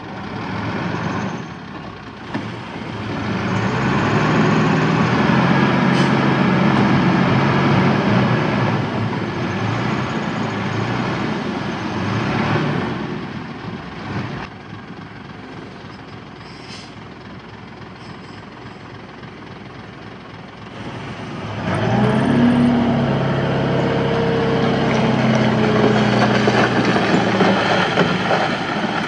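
Diesel engine of heavy earthmoving machinery working under load. It runs loud for about ten seconds, eases off for several seconds, then picks up again with a rise in pitch about three-quarters of the way through.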